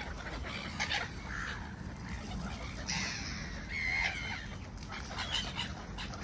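Birds calling, with scattered short chirps and calls, one clearer pitched call about four seconds in.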